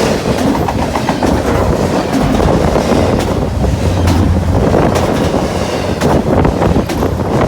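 Intermodal freight train cars rushing past at high speed, with a steady rumble and wheels clicking over the rail joints. Wind from the passing train buffets the microphone.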